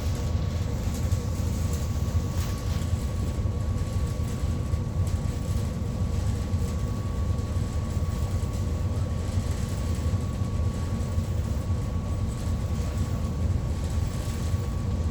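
Steady low rumble of a ferry's engines heard aboard the ship, with a faint constant hum over it.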